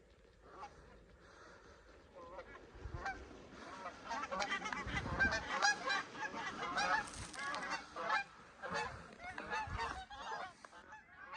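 A flock of Canada geese honking and clucking close by, many overlapping calls. The calling is faint for the first few seconds, then builds and stays busy through most of the rest.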